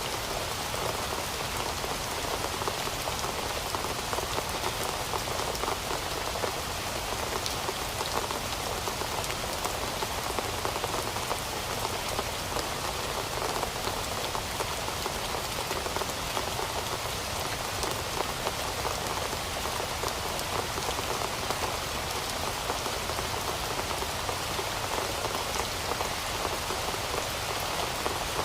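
Steady rain falling on a surface, a dense even hiss full of fine drop patter, with no change in strength.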